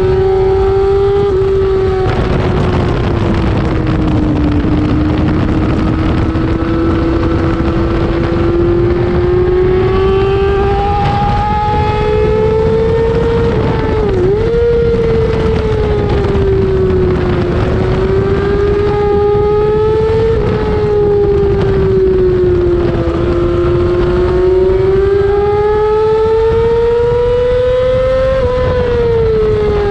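2008 Yamaha R6's 600 cc inline-four racing engine run hard at high revs, its note climbing slowly and falling again as it works through the gears, with a brief sharp dip about halfway through and a drop near the end. A steady rush of wind noise lies under it.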